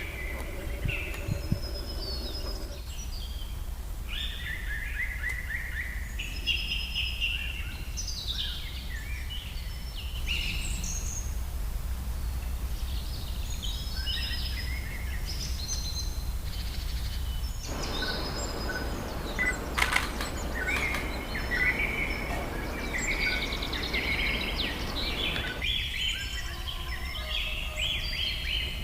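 Several wild birds singing and calling, with many overlapping short chirps and trills, over a low steady rumble. A rushing noise joins in for several seconds past the middle.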